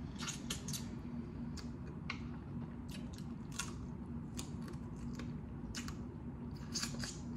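Close-miked mouth sounds of chewing blue crab meat: a dozen or so short, wet clicks and smacks at an irregular pace.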